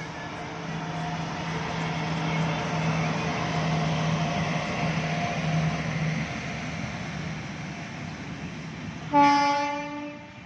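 A superfast passenger train running past on the rails: a steady rushing rumble with a low hum swells and then eases. Near the end comes a single short, loud blast of the locomotive's horn.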